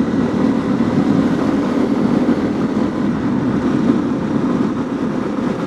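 Honda CRF250L's single-cylinder four-stroke engine running at a steady pace with tyres rolling on gravel, a constant mix of engine and road noise.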